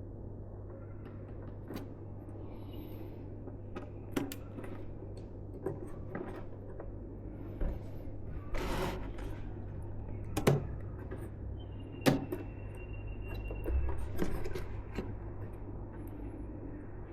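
Hands working on PC parts: scattered small clicks, taps and rustles, with two sharp clicks about ten and twelve seconds in and a faint thin squeak for a couple of seconds after the second, over a steady low hum.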